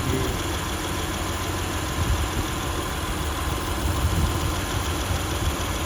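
2004 Honda Accord's V6 engine idling steadily with the hood open, already warm rather than on a cold start.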